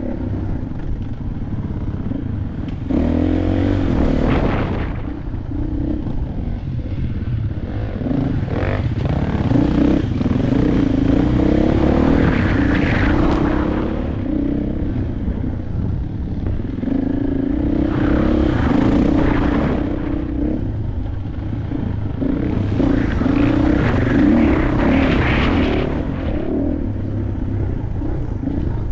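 KTM 500 dirt bike's single-cylinder four-stroke engine under way, running steadily with repeated surges of throttle every few seconds, the engine note climbing and falling as it accelerates and backs off, with wind and rattle noise swelling along with each surge.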